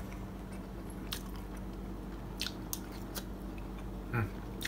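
A person chewing a spoonful of sticky rice topped with grated cheese: scattered soft mouth clicks and smacks over a faint steady hum, with a short murmur of voice near the end.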